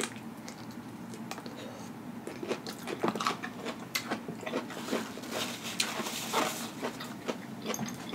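Close-miked chewing of crispy deep-fried catfish, a run of short wet crunches and clicks.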